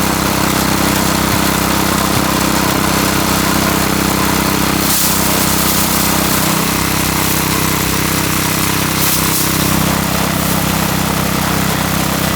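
Small engine of a mini rice threshing machine running steadily, with a couple of brief hissing swells.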